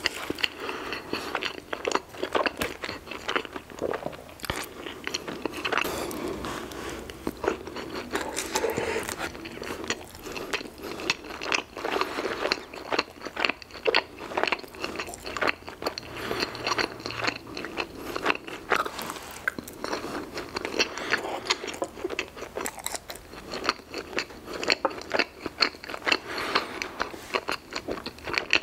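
Close-miked chewing of soft, icing-covered mini cinnamon rolls: a steady run of sharp mouth clicks and smacks.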